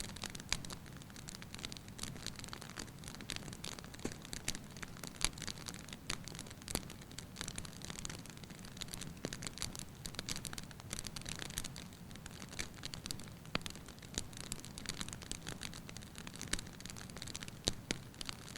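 Firewood burning in a fireplace, crackling lightly with frequent small irregular pops over a soft low rumble of the flames.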